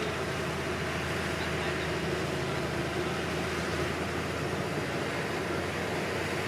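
Komatsu D31P crawler bulldozer's diesel engine running steadily.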